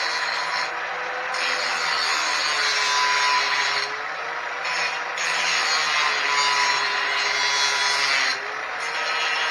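Angle grinder with a cut-off wheel cutting through the steel frame tubing: a steady high whine under a loud harsh cutting noise that eases off briefly a few times as the wheel is lifted or repositioned.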